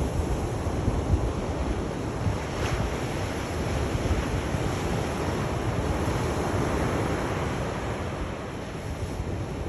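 Sea waves washing onto a shore in a steady rush, swelling gently and easing off, with a low rumble of wind on the microphone.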